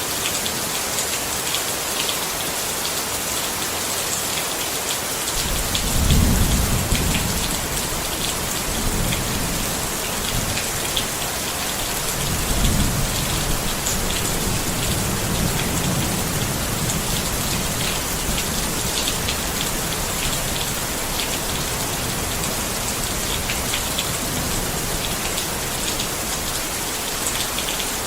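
Steady rain falling on a tent, with scattered drops ticking on the fabric. Low thunder rumbles come in about five and a half seconds in and again about twelve seconds in, each swelling and dying away over several seconds.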